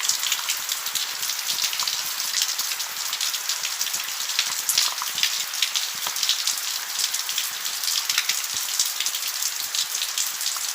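Steady rain falling, a dense hiss with many small individual drops pattering on surfaces.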